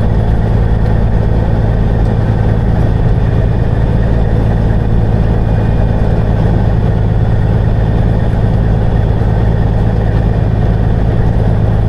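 Semi truck's diesel engine running steadily at low speed, a constant low drone.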